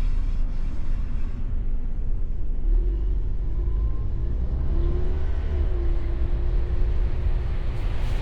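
Mustang convertible driving, heard from inside the open car: a steady low rumble of engine and road. A faint steady tone rides over it from about three seconds in until near the end.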